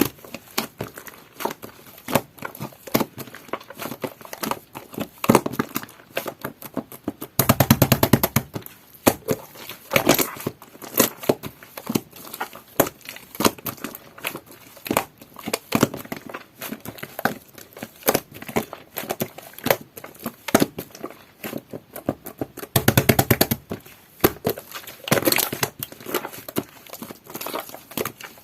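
Hands squishing and stretching slime mixed with shaving foam: a continual run of sticky clicks and pops, with two spells of dense, rapid crackling, one about a quarter of the way through and one about four-fifths through.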